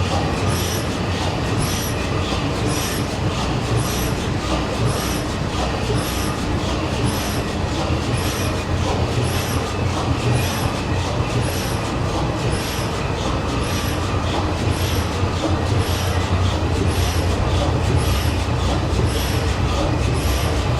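Steady machinery noise with a low hum and a regular beat about once a second.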